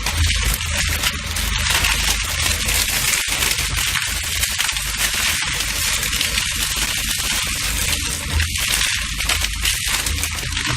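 Industrial shredding machine crushing material: dense, continuous cracking and crackling over a steady low machine hum.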